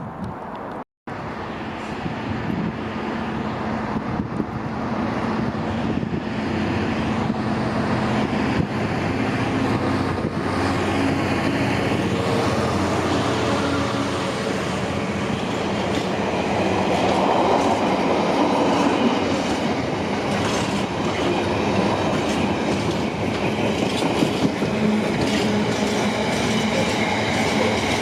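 Freight train running past: a continuous rumble of locomotive and wagons with wheels clattering over the rail joints, growing louder over the first few seconds as it comes by.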